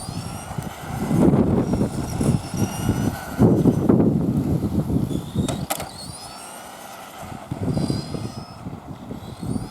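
Radio-controlled Tamiya truck's electric motor whining up in pitch several times as it speeds up, over a rough low rumble, with one sharp click about halfway through.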